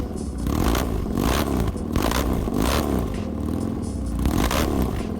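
Custom cafe racer motorcycle engine revved in quick repeated throttle blips, its pitch rising and falling about twice a second over a steady low rumble.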